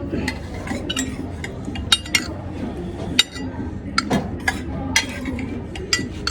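Cutlery clinking against plates and dishes during a meal, about a dozen sharp, irregular clinks over a steady low background.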